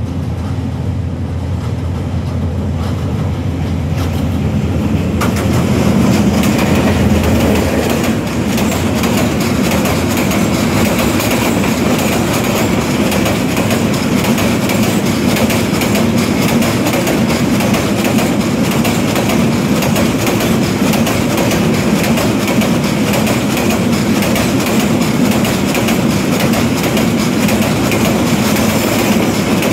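Oil tanker freight train passing: a low steady engine hum for the first seven or eight seconds, then the steady rumble and clickety-clack of the tank wagons rolling by.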